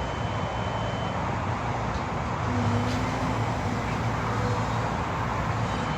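Steady rumble of motor engines and road traffic, with a continuous low hum.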